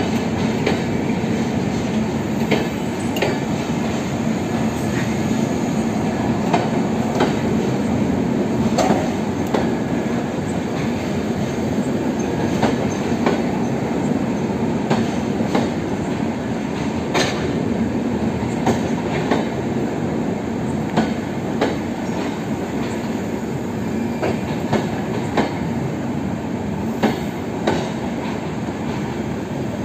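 LHB passenger coaches rolling past close by: a steady rumble of wheels on rail, with scattered sharp clicks as the wheels cross rail joints.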